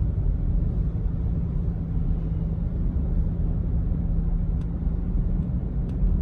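Steady low rumble of a vehicle driving along a road, engine and tyre noise heard from inside the cab, with a few faint light ticks near the end.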